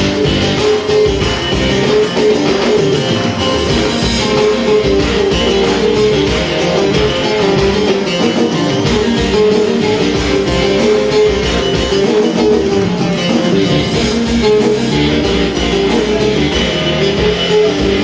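Live instrumental break of a Turkish folk song: a band led by a plucked bağlama (saz) playing a fast, steady melody between sung verses.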